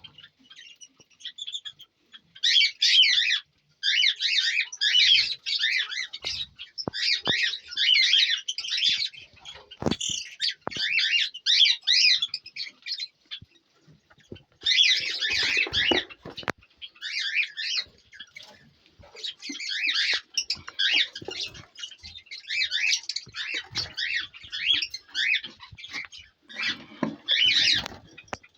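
A mix of small cage birds (finches, lovebirds, cockatiels) chirping and twittering together in bouts of about a second, with short pauses between, and a few light knocks among them.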